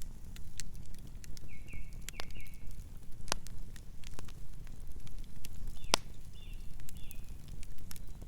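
Wood fire crackling, with irregular sharp pops and snaps over a steady low rumble. Two brief clusters of high squeaky whistles come through, about two seconds in and again around six seconds.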